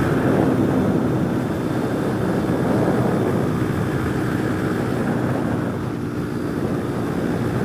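Honda Monkey 125's single-cylinder four-stroke engine running flat out through a Yoshimura RS3 exhaust at about 76 mph, under a heavy rush of wind over the microphone. The engine note eases slightly past the middle.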